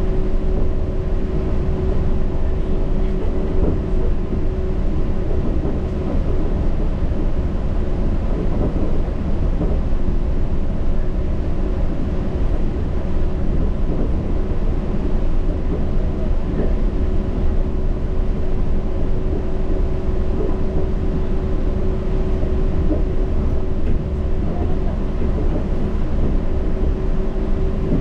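Yurikamome rubber-tyred automated guideway train running steadily along its track: constant low running noise with a steady hum over it.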